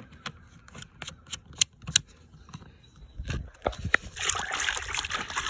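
Scattered light clicks and knocks, then about four seconds in water starts splashing and rushing steadily over the car during a hand wash.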